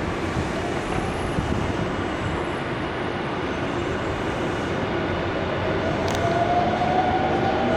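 Nankai electric commuter train running at the platform, a steady rumbling rush of wheels on rail, with the motors' whine rising in pitch from about five seconds in.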